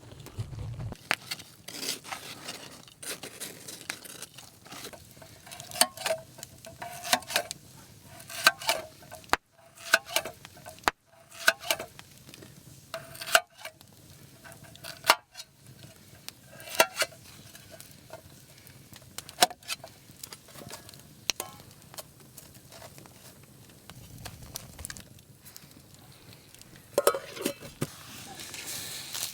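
A metal utensil stirring and scraping in a cooking pan, making a long run of irregular clinks and scrapes, some with a short metallic ring.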